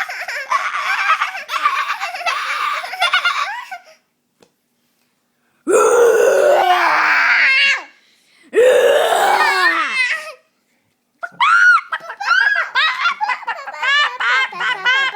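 Young child laughing hard in rhythmic bursts. Midway come two long, loud vocal sounds that slide down in pitch. Then high-pitched giggling runs to the end.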